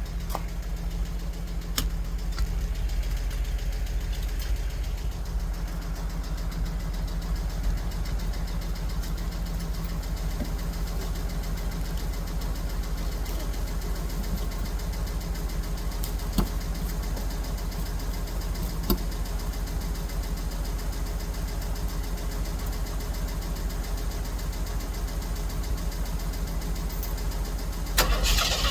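Jeep engine idling steadily, growing louder right at the end.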